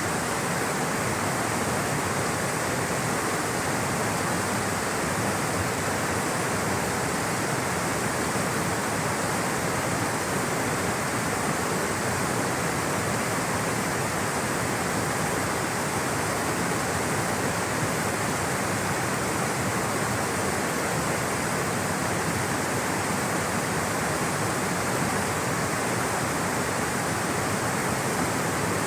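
Rushing water flowing steadily in a stream, a constant, even rush with no breaks.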